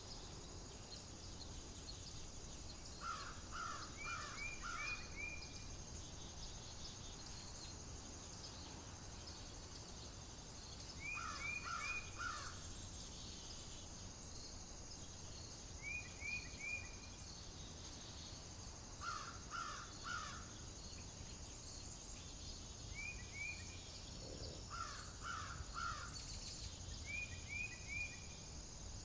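A bird calling in short runs of three or four quick notes, repeated every few seconds, over a steady high hiss and a low outdoor rumble.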